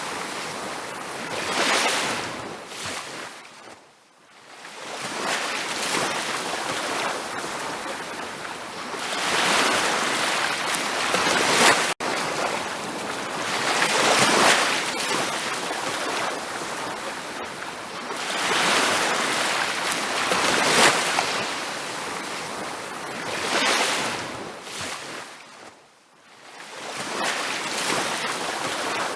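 Ocean waves breaking on a beach, surging and falling back in slow swells every few seconds, with two deep lulls between sets. There is a split-second dropout about halfway through.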